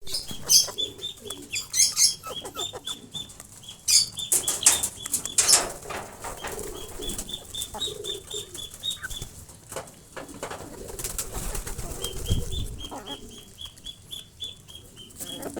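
Domestic birds at scattered grain: wings flapping and quick pecking clicks, over three spells of short high peeps repeating about four times a second.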